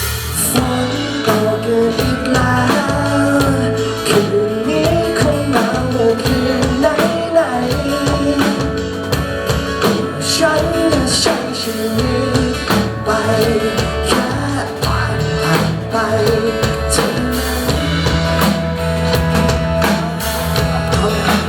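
Instrumental intro of a Thai pop-rock song played by a band: drum kit and bass under a wavering melodic lead line.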